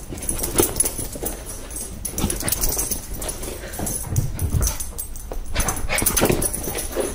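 A dog making short, irregular noises, with a few brief lower-pitched sounds about four and six seconds in.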